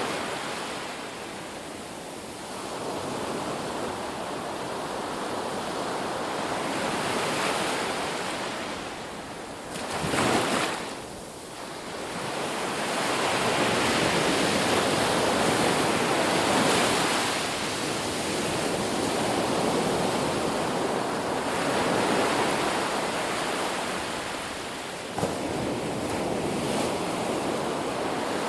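Sea waves breaking and washing in, swelling and easing in repeated surges. There is a single sharp click near the end.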